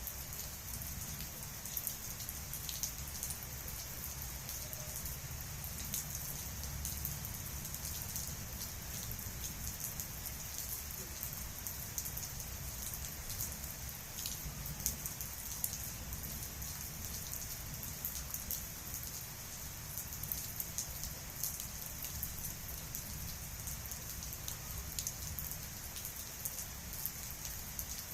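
Steady monsoon rain falling, a continuous hiss with many small drop ticks and patters on surfaces.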